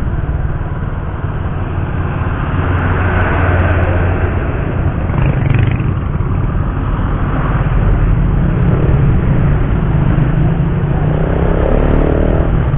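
Motorcycle riding along a highway: its engine runs steadily under heavy wind noise on the microphone, with road traffic around.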